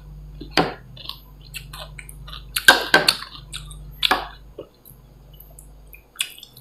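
A person chewing and smacking their lips while eating rice and dal, with irregular wet clicks, the loudest cluster about three seconds in. A steady low hum runs underneath.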